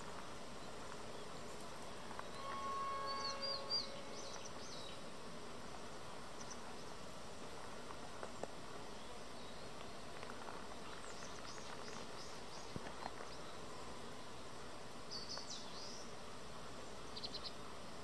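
Quiet woodland ambience: a steady faint hiss with short, high-pitched bird chirps. There is a cluster of chirps and a brief lower pitched call about three seconds in, and scattered chirps later, near the middle and near the end.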